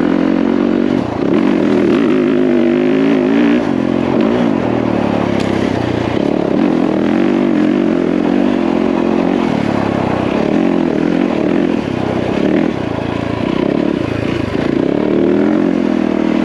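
Yamaha WR450F dirt bike's single-cylinder four-stroke engine running as it is ridden, its pitch rising and falling with the throttle.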